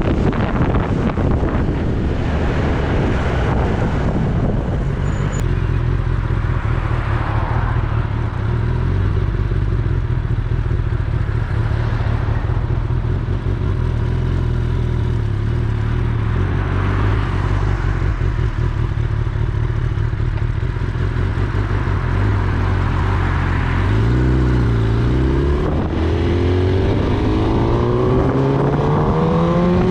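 Kawasaki Ninja ZX-10R's inline-four engine running at a steady pitch under heavy wind noise on the microphone. Near the end the pitch dips, then climbs steadily as the bike accelerates.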